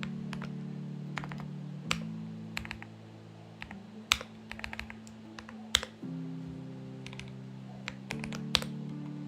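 Typing on a Xinmeng X98 mechanical keyboard: irregular keystrokes in short runs, a few struck harder than the rest. Soft background music with sustained chords plays underneath.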